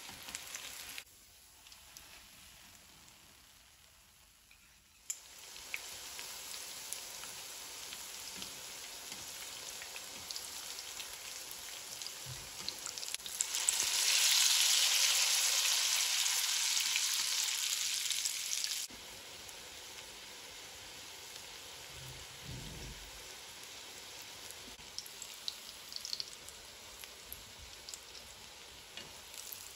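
Oil sizzling and crackling in a frying pan as courgette and carrot fritters shallow-fry. The sizzle is loudest for about five seconds midway, with fresh raw batter just in the hot oil, then drops abruptly to a steadier, quieter frying hiss.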